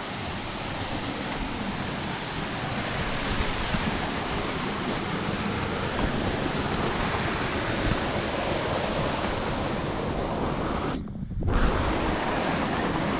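Steady rush of water from Bambarakanda Falls at its brink, mixed with wind on the microphone. About eleven seconds in, the sound briefly dips and is muffled.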